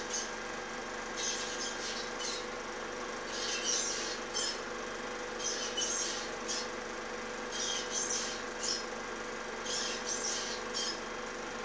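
High-pitched bird calls in short clusters of chirps, repeating about every two seconds, over a steady hum.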